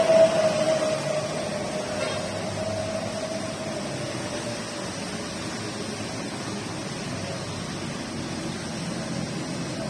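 A passing motor vehicle's engine fades away over the first few seconds, its pitch sinking slightly, leaving a steady hiss of rain.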